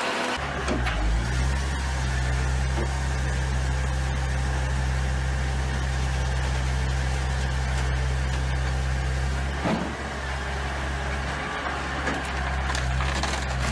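A machine's engine running steadily with a low, even hum. It starts just after the beginning and changes briefly about ten seconds in.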